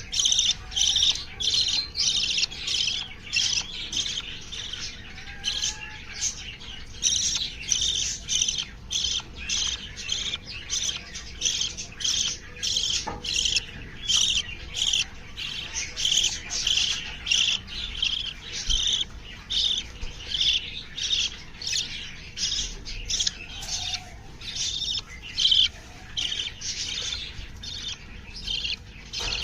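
Small aviary birds chirping and squawking without pause, short high-pitched calls repeating about twice a second.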